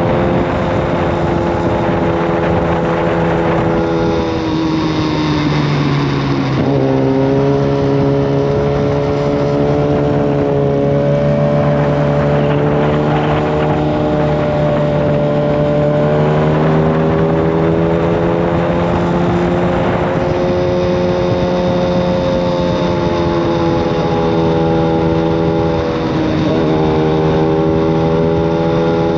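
Yamaha FZ1 Fazer's inline-four engine through a Mivv GP exhaust with the dB killer removed, running loud at a fairly steady cruise. The engine note drifts slowly in pitch, with two brief breaks where the pitch shifts, about six seconds in and near the end, over wind and road noise.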